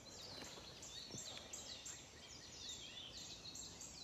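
Jungle ambience of birds chirping: many short, high calls repeating quickly, over a light hiss.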